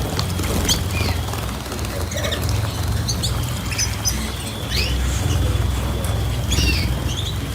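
Small cage birds giving short, scattered chirps, with wings fluttering.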